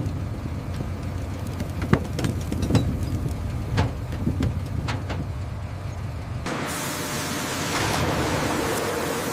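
Steady low engine hum with scattered knocks and thumps. About six and a half seconds in it cuts off abruptly and gives way to a steady rushing hiss.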